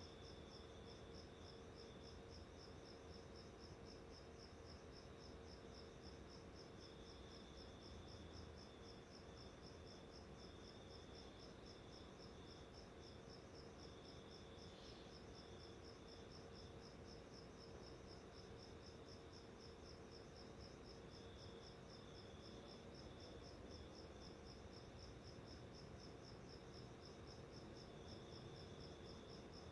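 Faint, steady insect chirping: rapid, evenly spaced high chirps that go on without a break, over a low steady hum.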